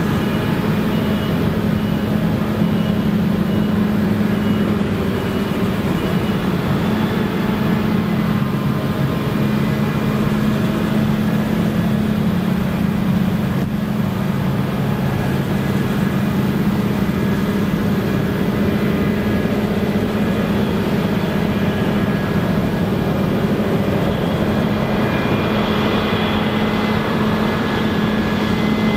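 Claas Lexion combine harvester running steadily while harvesting rye: a constant engine drone with a low hum and machinery noise, without breaks.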